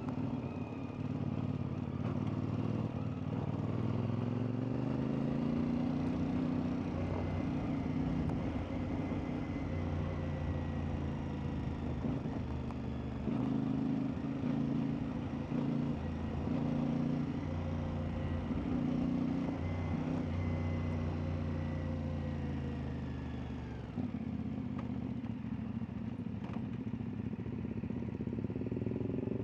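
CFMoto 450MT's parallel-twin engine running under way off-road, revving up over the first few seconds and then pulling steadily, with occasional clatter. About 24 seconds in the engine note drops as the throttle comes off, and it revs up again at the very end.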